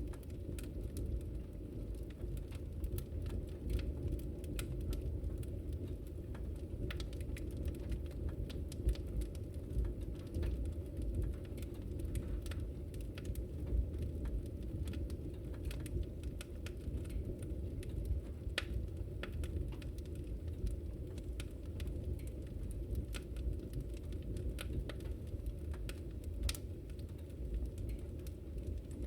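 Wood fire crackling in a fireplace: irregular sharp pops and snaps scattered over a steady low rush of burning.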